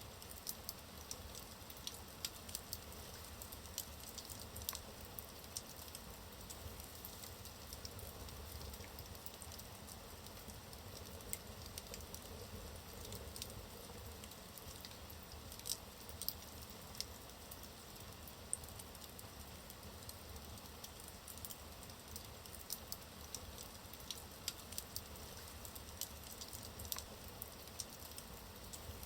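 Wood fire burning in a fireplace: a soft steady hiss and low rumble with frequent small sharp crackles and pops from the burning logs.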